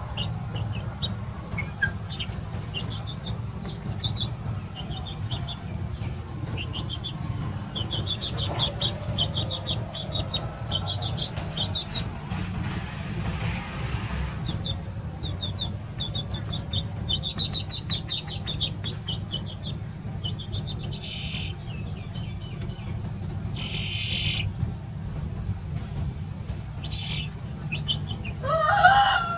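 Small birds chirping in quick runs of short high notes over a steady low rumble; near the end a rooster begins to crow.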